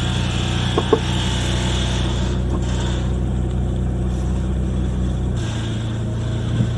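Daihatsu Copen's JB-DET 660 cc turbocharged four-cylinder engine idling steadily after a start test, its low note shifting slightly about five seconds in. A couple of short clicks sound about a second in.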